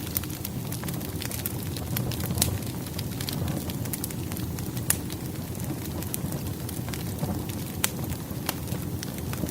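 Burning firewood crackling: a steady low rumble of the fire with irregular sharp pops and snaps from the logs.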